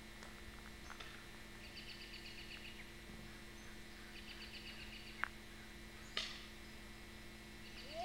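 Faint bird song: two short phrases of rapid high trilled notes, over a steady low electrical hum. A sharp click comes about five seconds in and a brief knock just after six seconds.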